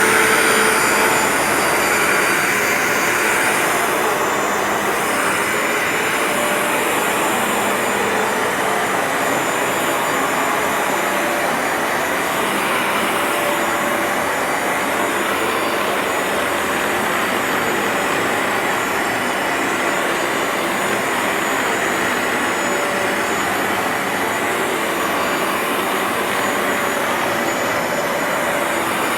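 Bissell ProHeat 2X upright carpet cleaner running steadily, its suction motor drawing water back up out of a carpet being washed. It is a little louder in the first few seconds.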